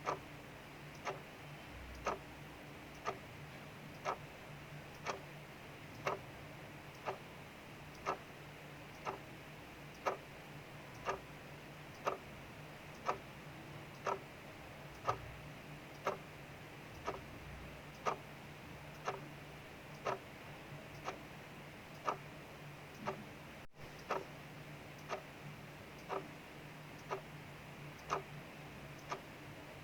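Clock ticking steadily, about one tick a second, over a soft steady hiss of rain.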